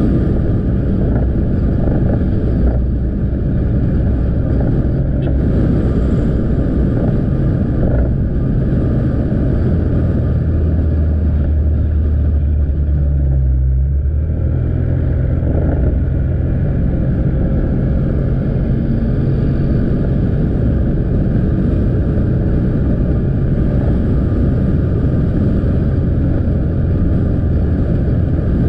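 Motorcycle engine running steadily under way, with road and wind noise on the helmet or bike-mounted camera. The engine note shifts about halfway through, dipping briefly and then picking up again.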